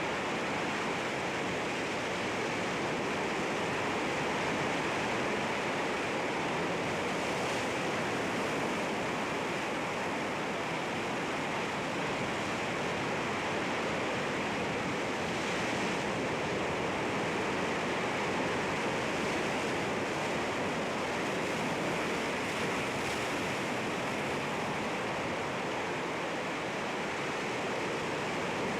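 Sea waves washing against rocks, a steady dense rush of surf with slight swells every several seconds.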